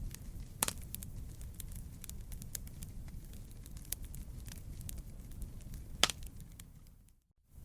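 Wood campfire crackling: a steady low rumble of burning wood with frequent small crackles and two sharper pops, about half a second in and about six seconds in. The sound drops out briefly near the end.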